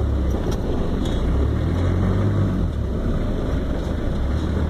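Off-road truck's engine running steadily at low revs, a continuous low rumble as the truck creeps along slowly.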